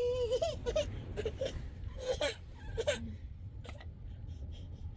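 A child's high-pitched whimpering: several short whines and sobs in the first three seconds, then quieter, over a steady low rumble.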